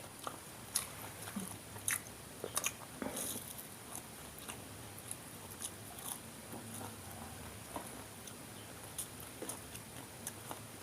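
Close-up eating of gorengan, Indonesian deep-fried tofu and tempeh: a few crisp crunching bites in the first few seconds, then quieter chewing with scattered small clicks.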